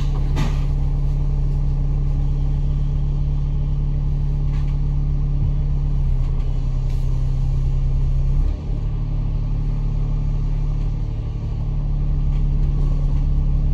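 Kowloon Motor Bus engine running under way, heard from inside the bus, with a steady drone. About two-thirds of the way through the note dips briefly and changes pitch, as at a gear change, then the engine builds again.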